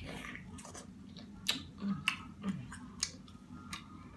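Close-miked eating sounds: wet chewing and about five sharp lip-smacking clicks, with two short hums in between.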